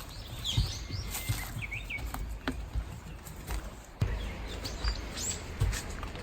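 Small birds chirping in short calls, mostly in the first two seconds, over a low rumble with scattered soft thumps.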